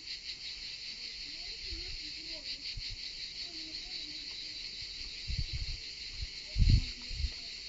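Insects chirring in a steady, high-pitched drone with a fast pulse. A few low thumps come about five and a half seconds in and again at about six and a half, the second being the loudest moment.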